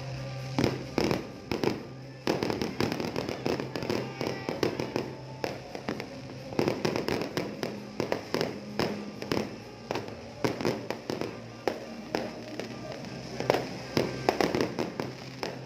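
Fireworks going off: an irregular run of sharp bangs and pops, several a second, some louder than others.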